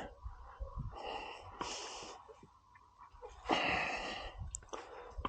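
Compressed air hissing in three short bursts from an air chuck on the tyre valve as the motorcycle's front tyre is pumped up to about 38 psi. The last burst is the longest.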